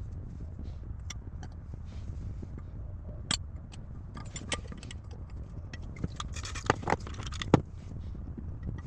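Small metal parts and tools clinking and clicking as they are handled, with a busier run of clinks near the end, over a steady low hum.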